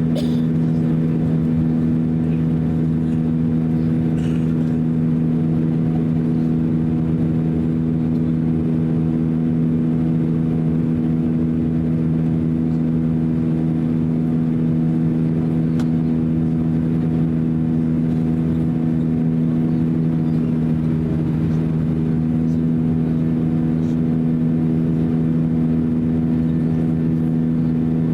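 Airbus A321 with IAE V2530-A5 turbofan engines, heard from inside the passenger cabin: a steady, loud engine drone with two strong low hums and fainter higher tones, holding constant pitch throughout.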